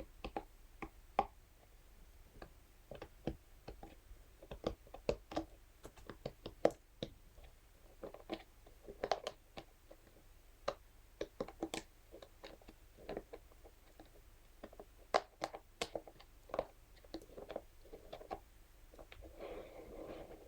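Irregular close-up tapping and clicking, a couple of taps a second, from a scalp massage brush worked on a surface, with short scratches between the taps. A denser scratchy rustle starts near the end.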